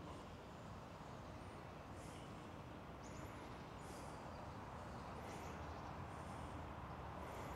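Quiet outdoor ambience: a steady low background noise with faint, high bird chirps about once a second.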